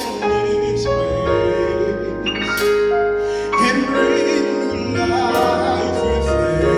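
Gospel choir music: voices holding sustained chords over instrumental accompaniment.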